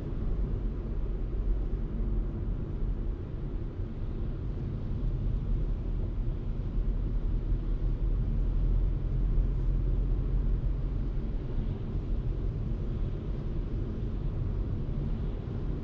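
Steady low rumble of a car driving: engine and tyre road noise as heard from the moving car, with no sudden sounds.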